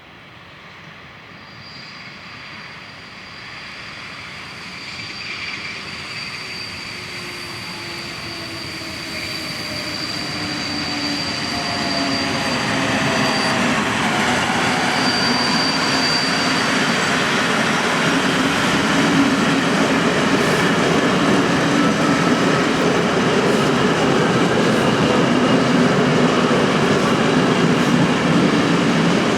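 A train approaching and running by close, growing steadily louder over the first dozen seconds, then a loud, steady rumble of wheels on rail. A high, steady whine sounds in the first half, and a lower hum slowly falls in pitch as it comes in.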